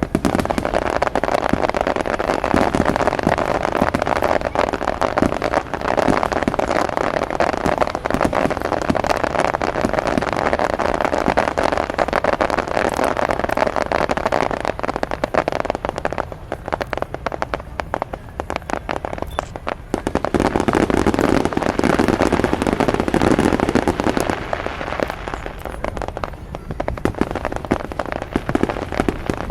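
Fireworks display: a dense, continuous barrage of bursting shells and crackling, with a stretch of more separate, sharper bangs a little past the middle.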